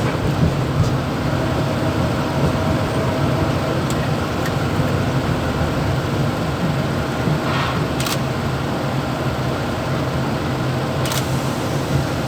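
Mumbai EMU suburban local train running between stations, heard inside the motorman's cab: a steady hum and rumble, with a few sharp ticks and rattles about two thirds of the way in and near the end.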